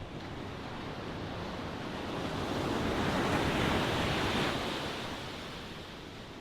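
Ocean waves: the surf swells to a peak about halfway through, then falls back to a steady wash.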